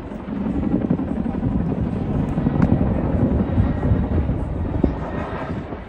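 Boeing CH-47 Chinook helicopter's tandem rotors beating steadily, with the rapid low pulsing of the blades.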